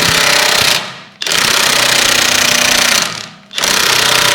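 DeWalt impact wrench hammering on a seized, corroded M10 bolt in three bursts, pausing briefly about a second in and again about three seconds in.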